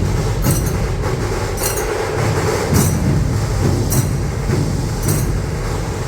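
Massed dhol drums and tashas playing a dense, driving rhythm, with a bright metallic clash about once a second.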